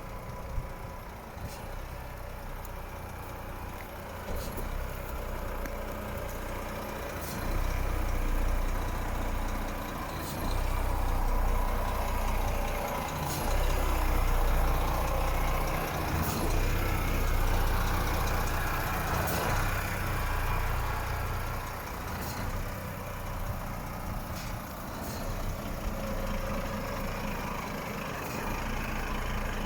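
Renault T 380 truck's diesel engine idling, then held at raised revs from about a quarter of the way in until past the middle before dropping back to idle. Faint clicks recur every few seconds.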